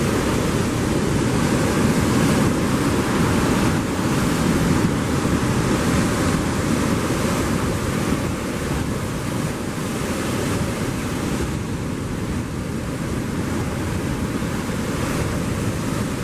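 Ocean surf breaking and washing in a continuous rush, with wind buffeting the microphone.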